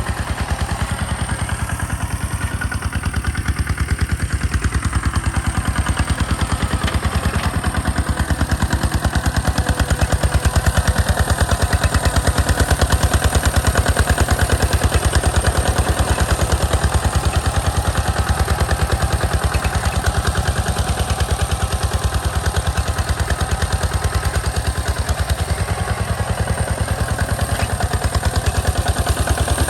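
Two-wheel hand tractor's engine running steadily, with a rapid, even chugging rhythm and some clatter.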